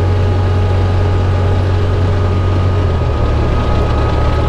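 Side-by-side UTV engine running under way, a steady low drone with a hiss of wind and tyres over it; its pitch shifts slightly about three seconds in.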